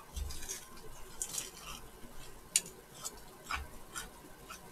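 People chewing fried chicken, with a scatter of small crisp crunches and mouth clicks at irregular times.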